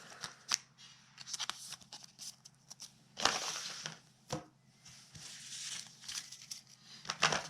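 Plastic and foil card packaging crinkling and rustling as it is handled, in two longer rustles with scattered light clicks and taps between them.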